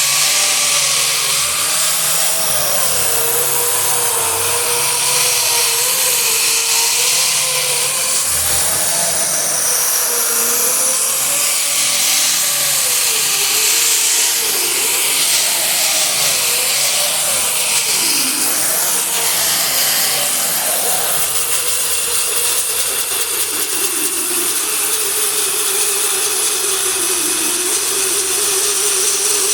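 Handheld power tool spinning a 36-grit sanding disc, grinding paint off a car's steel hood. It runs steadily, its pitch wavering up and down as the disc is pressed and eased on the metal, with a sharp dip a little past halfway.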